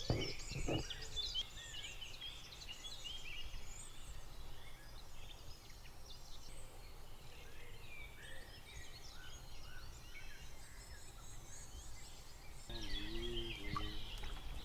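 Several songbirds singing at once, a dense chorus of chirps and warbles.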